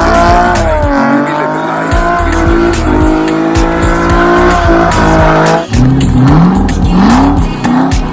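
Car tyres squealing at length, the screech holding with slowly wavering pitch, with a short break about five and a half seconds in and then rising squeals.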